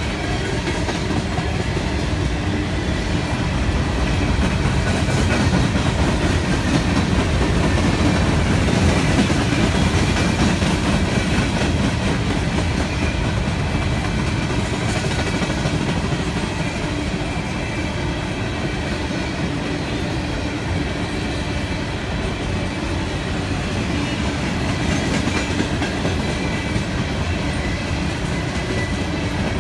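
Freight train of coal hopper cars rolling past: a steady rumble of steel wheels on the rail, swelling slightly a few seconds in.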